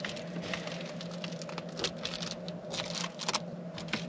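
Light, irregular ticks and taps of drizzle dripping on a truck's softopper, over a steady low hum.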